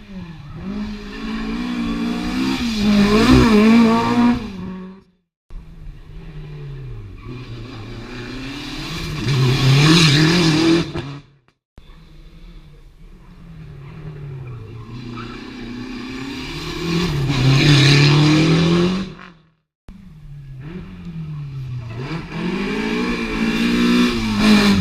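Rally cars on a special stage passing one after another at full throttle, four in turn. Each engine note climbs and grows louder as the car comes by, then cuts off abruptly at an edit.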